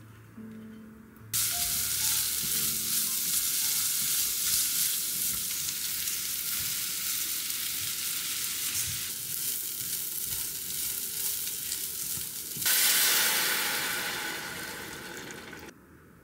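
Burdock strips and soaked rice sizzling as they are stir-fried in hot perilla oil in a pot. The sizzle starts about a second in, grows louder for the last few seconds, and cuts off suddenly.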